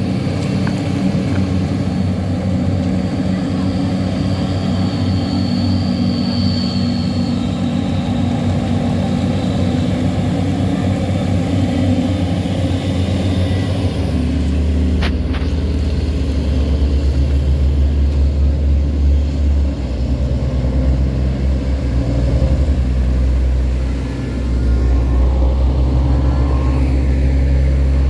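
Tugboat diesel engine running steadily. About halfway through, its low note drops and grows stronger and a little louder. A single sharp click follows soon after.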